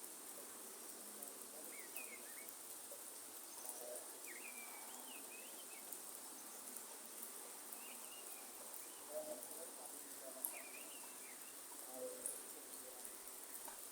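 Rainforest ambience: birds repeat short, high, whistled chirping phrases every second or two over a steady high-pitched insect drone, with a soft even hiss of light rain underneath and a few faint drips or clicks.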